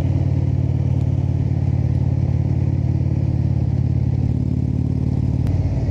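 Indian motorcycle's V-twin engine running steadily while cruising, with a click and a change in the engine note near the end.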